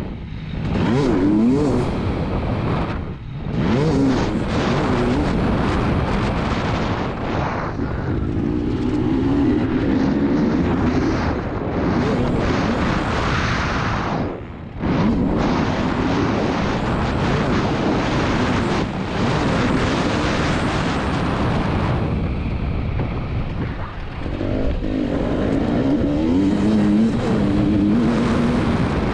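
2022 KTM 300 TPI two-stroke motocross engine revving up and down hard under riding, its pitch rising and falling, with brief throttle cuts about 3, 14 and 24 seconds in. Wind noise rushes over the microphone throughout.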